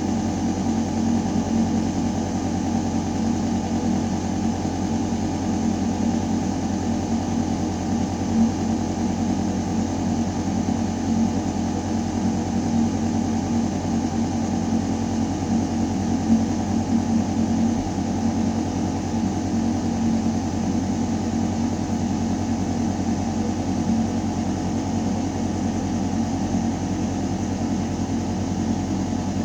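Ventilation system running in a building shaft: a steady, deep mechanical hum with air rushing through metal ductwork, unchanging throughout.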